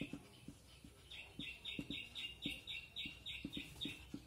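A small bird chirping in a quick even series, about three or four chirps a second, from about a second in until near the end. Under it come faint short taps and scratches of a marker writing on a whiteboard.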